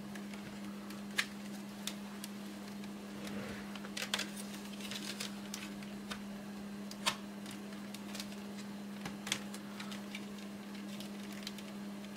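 Scattered light clicks and taps of tools and plastic casing parts as an HP 625 laptop is taken apart, over a steady low hum.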